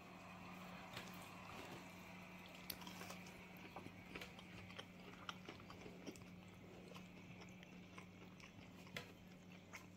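A man biting into and chewing a piece of breaded fried chicken: faint soft crunches and mouth clicks scattered throughout, over a steady low hum.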